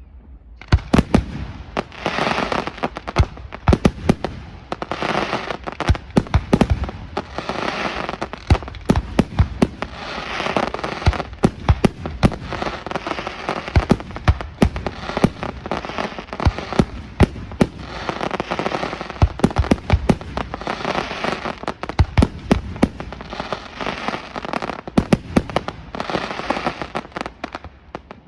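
Aerial fireworks display: a dense barrage of sharp shell bursts over continuous crackling, swelling in waves every two to three seconds, starting about half a second in.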